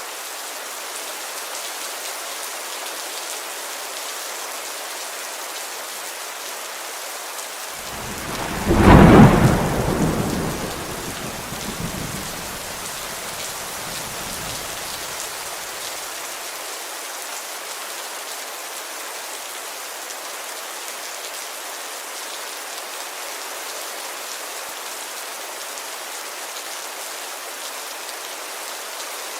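Heavy rain falling steadily on a window. About eight seconds in, a clap of thunder breaks out and rumbles away over several seconds.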